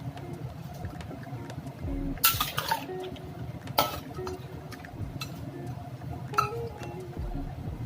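Kitchen utensil clinking against cookware, three sharp clinks with a brief ring, the loudest about two seconds in.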